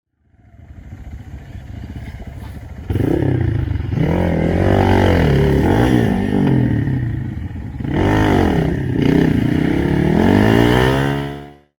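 Trail dirt bike engine revving hard, its pitch swinging up and down again and again as the throttle is worked, climbing steadily near the end before fading out.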